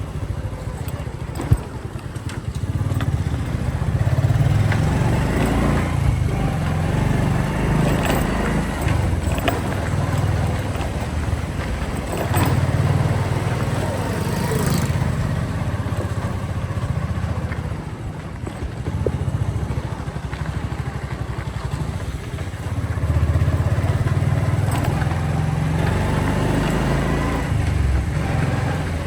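Motorcycle engine running while riding, its note swelling and easing several times with the throttle. There is a single sharp click about a second and a half in.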